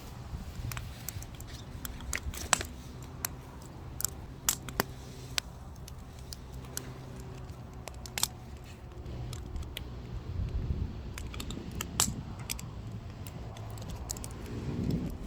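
Firewood burning, crackling with irregular sharp pops, over a low steady hum.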